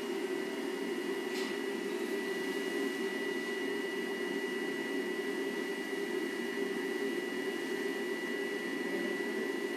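Powder coating equipment running with a steady low hum and a thin, steady high-pitched whine over it; a faint click sounds about a second and a half in.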